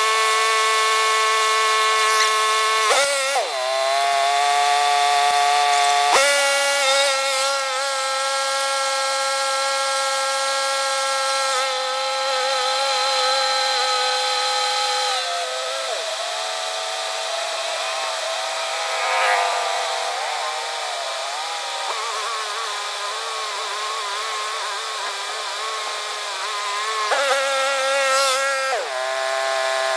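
Battery-powered grease gun motor whining steadily while pumping grease into the skid steer's track tensioner. Its pitch sags and rises a few times as the load changes.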